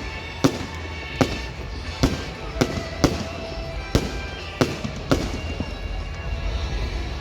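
Aerial fireworks going off in a display: about eight sharp, irregularly spaced bangs in the first five seconds, each with a brief ringing tail.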